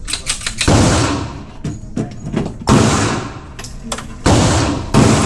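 Four pistol shots at an indoor range, spaced irregularly about one to two seconds apart, each a sharp report with an echoing tail, with lighter clicks and knocks between.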